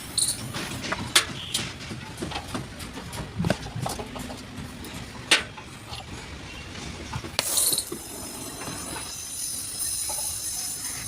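Scattered light metallic knocks and taps from sheet-metal denting work on a truck cab, irregular, with one louder knock about halfway through. About eight seconds in, a steady high-pitched whine comes in underneath.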